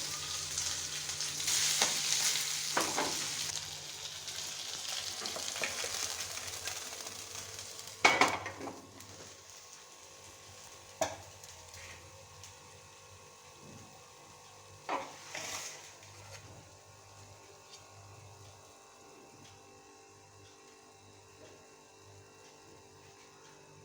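Food frying in hot oil in a pan, a loud sizzle with stirring for the first eight seconds or so, then dying down to a faint sizzle. Three sharp knocks stand out, about eight, eleven and fifteen seconds in.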